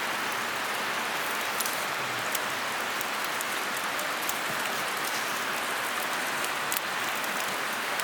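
Food sizzling on a grill over a campfire: a steady hiss with scattered small pops and crackles.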